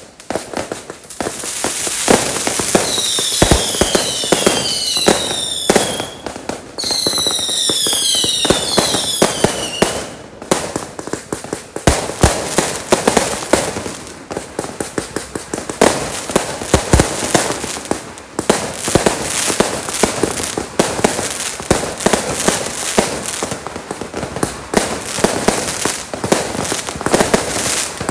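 Fireworks going off overhead: a dense, continuous crackling and popping, with a run of shrill whistles that each fall in pitch from about three to ten seconds in.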